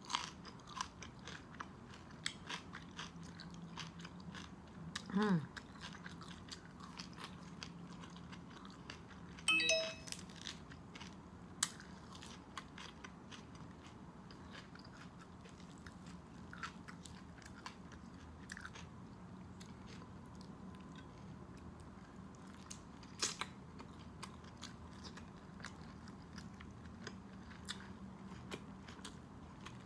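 Close-up eating sounds of a person biting and chewing the crisp-skinned meat of a baked pork leg: scattered wet smacks and crunchy clicks, a few louder ones around 5, 10 and 23 seconds in.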